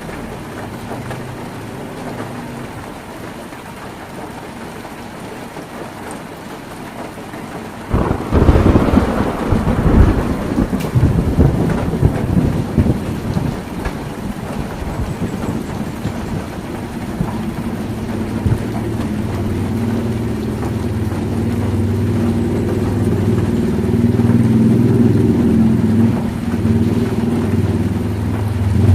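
Heavy rain on a tin roof with a sudden thunderclap about eight seconds in, crackling and rumbling away over several seconds. A low rumble then builds steadily toward the end.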